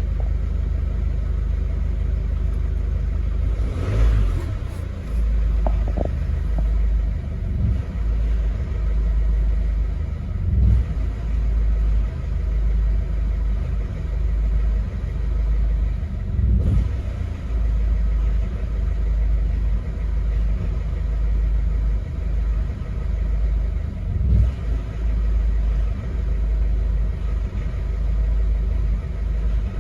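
Mercedes OM651 four-cylinder common-rail diesel given a brief blip of revs about four seconds in, then idling roughly and unevenly, with lumpy rises and dips in its running. The owner takes this rough idle after a throttle blip for a faulty fuel pressure control valve.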